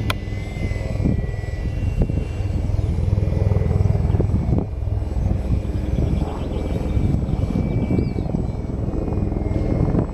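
Radio-controlled Glasair Sportsman model plane's motor and propeller whining in flight, the pitch drifting up and down, over heavy wind rumble on the microphone.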